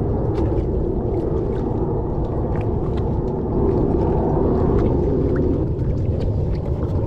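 Steady low rumbling noise of wind on the microphone, swelling slightly in the middle, with faint scattered clicks.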